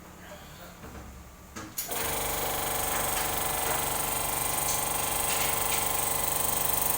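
Heidelberg SM 52 offset printing press running, a steady, fast mechanical clatter that starts abruptly about two seconds in. Before that there is only low room noise with a couple of soft knocks.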